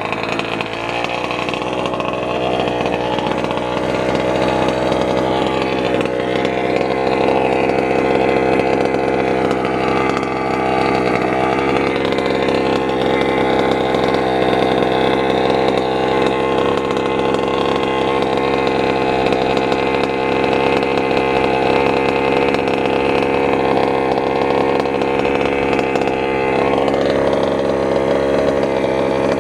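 Small 32cc Robin two-stroke engine in a fifth-scale RC stadium truck running steadily at a low, even speed. Its pitch wavers slightly about eleven seconds in and again near the end.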